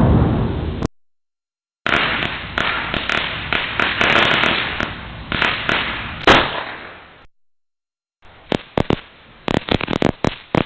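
Firecrackers going off: a dense run of rapid crackling pops for about five seconds that trails off, then after a short gap a sparser scatter of sharp single cracks. The tail of a louder previous blast fades and cuts off in the first second.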